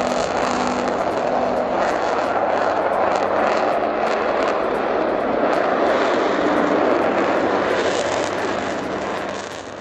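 Twin-engine Sukhoi Su-57 fighter jet flying by, its engines making a steady loud jet roar that eases off near the end.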